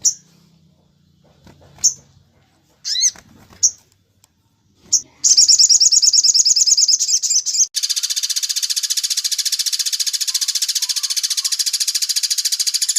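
Songbird song: a few separate high chirps, one of them sliding up and down, then about five seconds in a fast, high-pitched trill starts and runs on, turning at about eight seconds into a denser, continuous rapid chatter of very quickly repeated notes.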